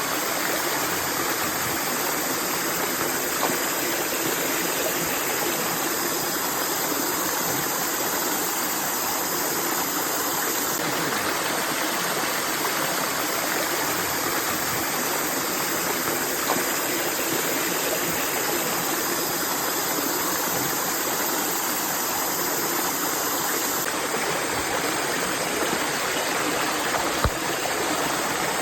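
Stream water rushing steadily, with a small knock near the end.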